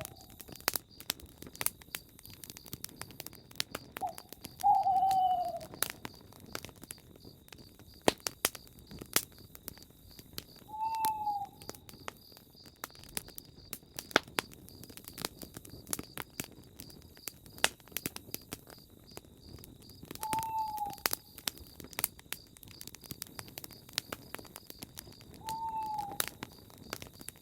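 Campfire crackling with frequent sharp pops. Over it a bird calls four times, several seconds apart, each a single short falling note, and a steady faint high-pitched trill runs underneath.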